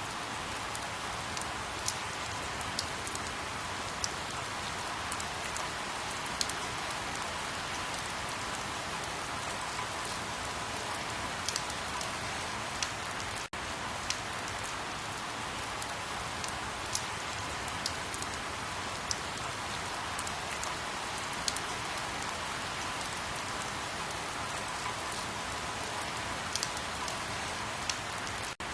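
Steady rain, an even hiss with scattered sharp taps of single drops. The sound drops out for a split second about halfway through and again near the end.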